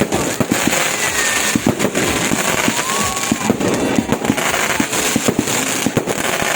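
Fireworks display: a dense, continuous run of sharp bangs and pops, several a second, with a crackle in between.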